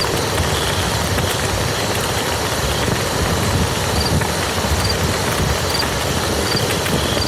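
Steady rain falling on muddy ground, a dense patter of drops over a low rumble.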